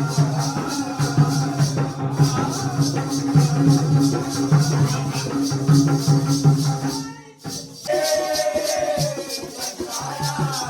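Jakhadi folk dance music: a steady, fast rhythm of jingling shaker-like percussion over a sustained low beat. It breaks off briefly about seven seconds in, then resumes with a melodic line.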